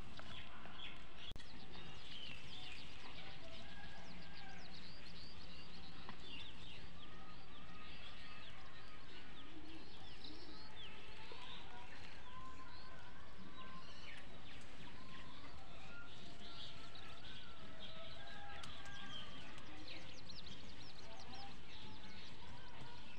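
Birds chirping and calling, many short overlapping chirps.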